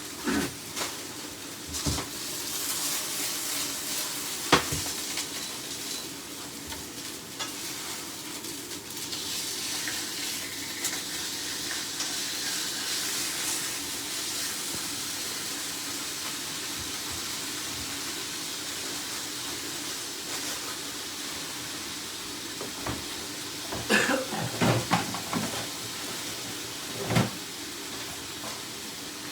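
Food sizzling steadily in a hot pan on the hob, with a few knocks of a utensil against the pan early on and a cluster of louder knocks and scrapes near the end.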